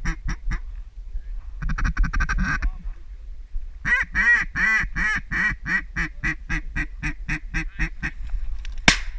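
Duck quacking: a few quacks at the start, a fast chatter about two seconds in, then a long run of about twenty quacks from four seconds on, loudest at first and growing softer. A shotgun shot goes off near the end.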